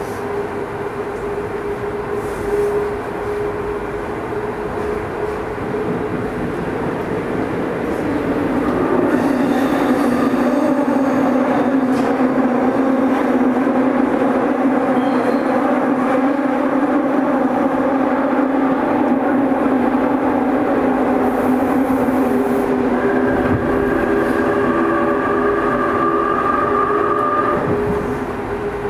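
Tobu 20070 series electric train running through a subway tunnel, heard from inside the car: steady running and motor hum that grows louder about a third of the way in. A higher whine joins it near the end.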